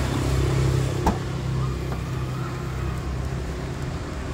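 A car engine idling steadily, with a single sharp click about a second in.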